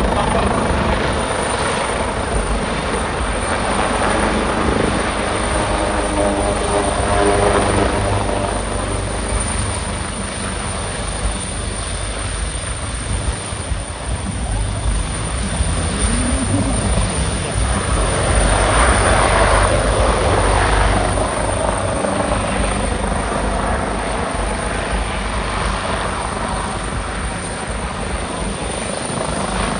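Helicopter flying nearby, its rotor beating steadily over the turbine noise, growing louder for a few seconds about two-thirds of the way through as it passes closest.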